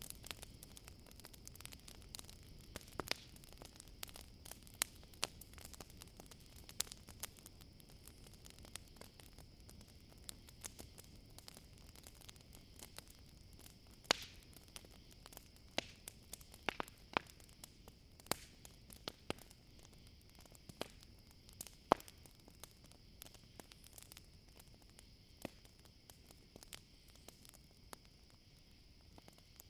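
Campfire crackling, with irregular sharp pops and snaps, a few louder than the rest, over a steady high trill of crickets.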